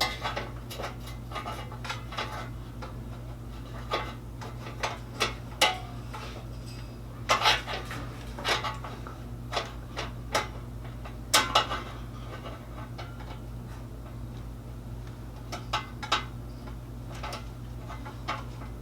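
Scattered metallic clinks and knocks from hand work fitting an aftermarket exhaust on a side-by-side, with a couple of louder clanks, over a steady low hum.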